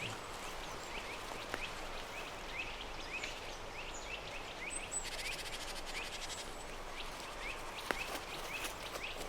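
Forest ambience: small birds chirping over a steady background hiss, about two short chirps a second.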